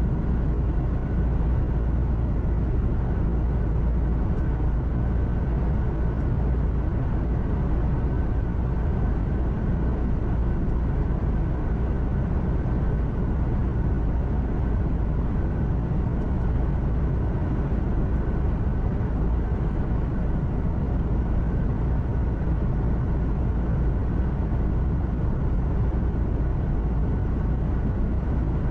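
Heavy truck heard from inside the cab while driving at a steady speed: a constant low engine drone mixed with road and tyre noise, with a faint steady whine above it.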